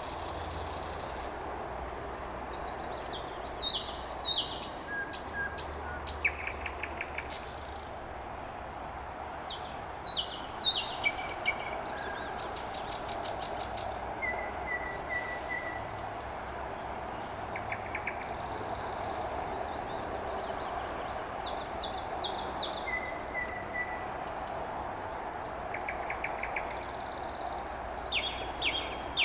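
Nightingale singing: repeated phrases of rapid clicking rattles and short whistled notes, a few seconds apart, over a steady background hum.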